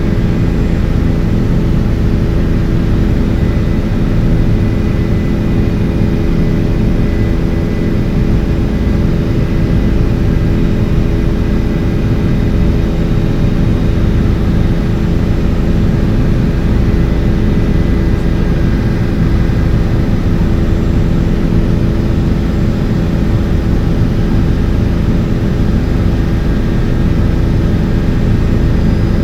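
Helicopter in flight: a loud, steady drone of engine and rotors, with several steady tones over a low rumble.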